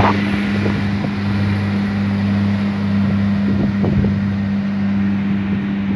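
Irish Rail ICR diesel railcar train pulling out of the platform, its underfloor diesel engines giving a steady low hum with wheel and track noise.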